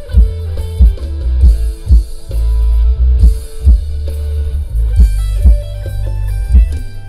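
Music with a deep bass line, a steady kick drum about twice a second and guitar, played loud through a homemade outdoor PA speaker cabinet being demonstrated.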